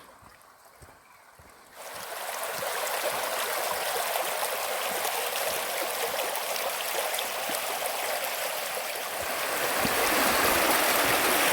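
Running water: a steady rushing hiss that starts suddenly about two seconds in and grows a little louder near the end.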